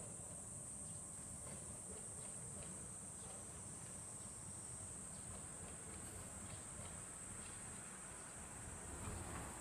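A steady, high-pitched insect chorus trilling without a break over a faint low rumble.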